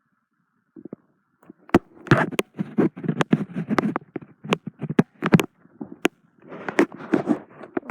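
Irregular rustling and scraping, with many sharp clicks and knocks, starting about two seconds in.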